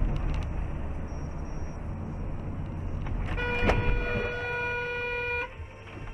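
Steady low engine and road rumble of a car while driving, with a car horn held for about two seconds a little past the middle, one steady tone. A single sharp click sounds just as the horn begins.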